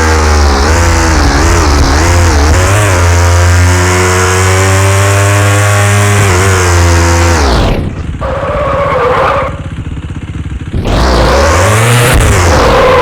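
KTM Duke 390's single-cylinder engine held at high revs, its pitch wavering as the throttle is worked. About seven and a half seconds in the revs drop away sharply, then climb again near the end.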